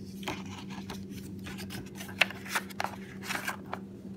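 Pen packaging being handled and pushed back into its box: light scraping and rubbing with a few sharp clicks and taps, the clearest a little after two seconds in.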